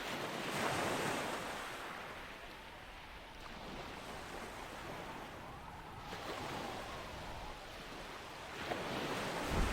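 Ocean waves washing onto a shore, a soft rushing surf that swells about a second in and again near the end.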